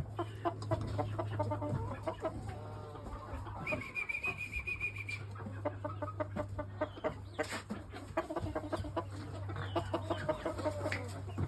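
Chickens clucking, many short calls one after another, over a steady low hum. A single high, thin note sounds about four seconds in and lasts about a second and a half.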